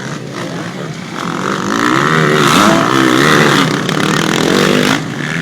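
Motocross bikes racing, their engines revving up and down in pitch and growing louder about a second in as they come closer.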